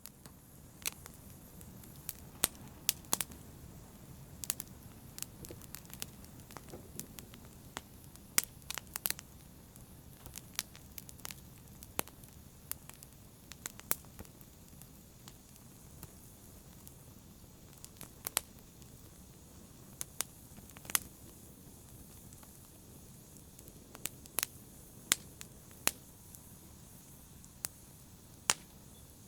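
Fire in a brazier crackling gently: a soft steady low rustle with sharp pops and snaps at irregular intervals.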